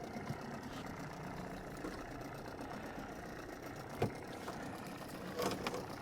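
Boat engine idling steadily, with a single sharp knock about four seconds in.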